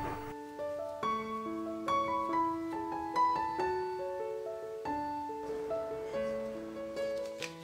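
Background piano music: a slow, gentle melody of held notes over soft chords.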